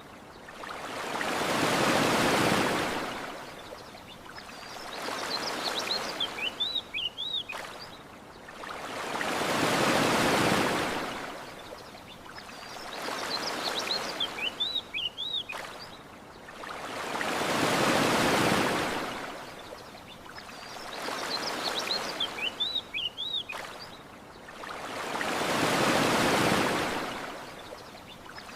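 Ocean waves washing onto a shore, a big surge about every eight seconds with a smaller one between, and short bird chirps in the lulls between surges. The same pattern repeats like a loop.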